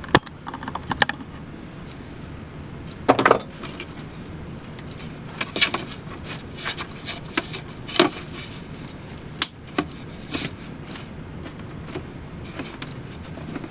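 Scattered clicks, knocks and light rattles of a wicker picnic basket and its lid being handled and fitted, over a steady background noise.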